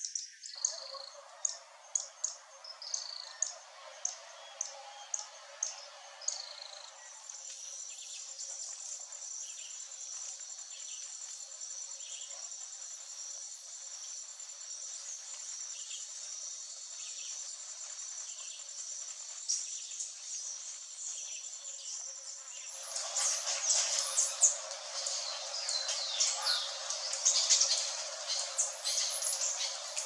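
Wild birds calling in a forest. First comes a series of about a dozen sharp, high, descending chirps. Then a steady high trill runs under a few faint notes, and for the last several seconds there is a dense, louder run of rapid high chirps.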